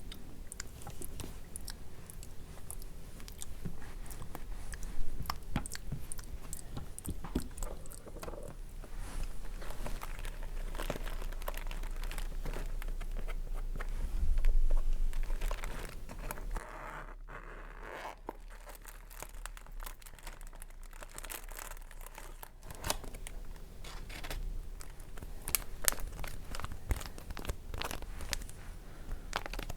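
Close-miked crinkling and crackling of a cosmetic bag being handled, a dense run of small crackles with a louder stretch about halfway through.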